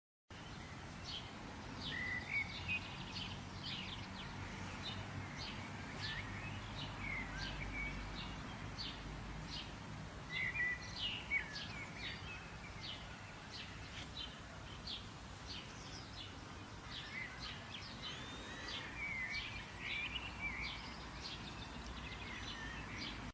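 Birds chirping: many short, sharp chirps in quick succession with a few gliding calls, over a steady low background noise.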